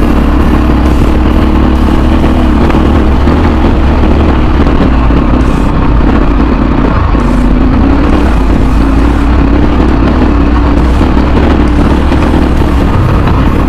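Motorcycle engine running steadily under way, loud over a constant rush of wind on the action camera's microphone.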